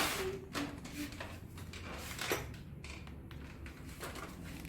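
A sharp knock at the start, then a few lighter clicks and taps, as of hard objects being handled, with no motor running.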